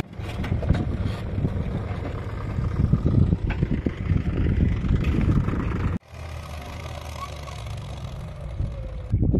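JCB 3DX Eco backhoe loader's diesel engine running with a steady low rumble. The sound cuts abruptly about six seconds in and carries on quieter.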